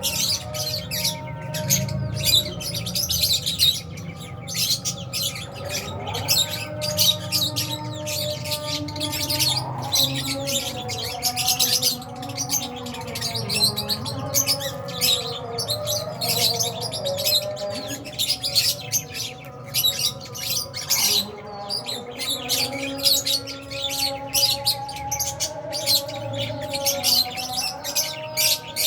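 A colony of lovebirds, Fisher's and albino, chirping non-stop: many rapid, high, overlapping chirps from several birds at once.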